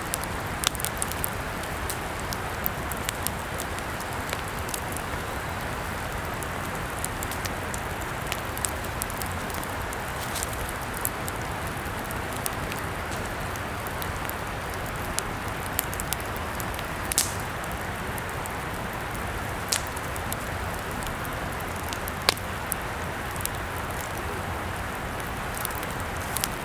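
Wood fire burning: a steady hiss with irregular sharp crackles and pops, and a few louder snaps scattered through.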